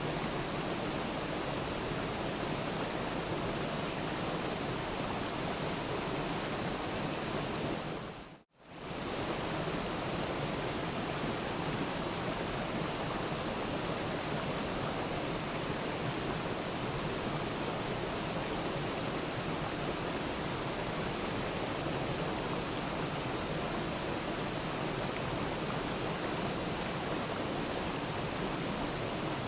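Waterfall rushing: a steady, even roar of falling water. About eight seconds in it fades briefly almost to silence and comes straight back.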